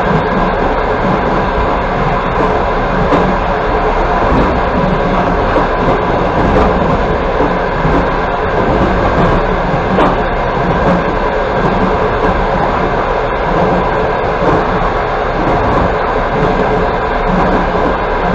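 Passenger train running steadily along the line: a continuous rumble and rattle of wheels on the rails, heard from inside a carriage, with faint scattered clicks.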